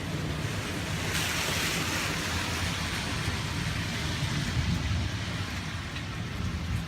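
Steady rain from a passing thunderstorm, with a low rumble underneath. About a second in, a sudden rush of hiss rises, then slowly fades.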